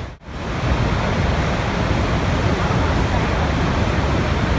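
Steady rushing water, a continuous dense wash of noise. It drops out sharply for a moment just after the start, then comes straight back.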